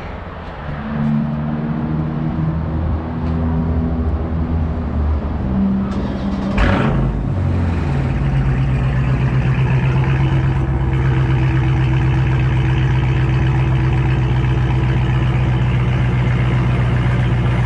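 2019 Dodge Charger Scat Pack 392 Hemi V8 with its mufflers removed, firing up with a sharp flare about six and a half seconds in and settling into a loud, steady idle. Another engine is already idling before it starts.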